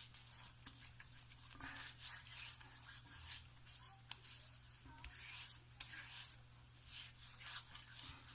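Faint, repeated soft strokes of fingertips rubbing over wet, freshly shaved skin, feeling for the residual slickness the shave soap leaves behind.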